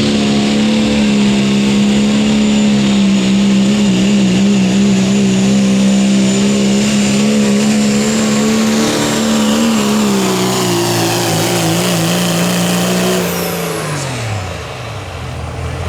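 Turbocharged diesel pull truck running flat out under load, engine held at a steady high pitch with a faint high whistle above it. Near the end the revs step down and then fall away as the throttle comes off at the end of the pull.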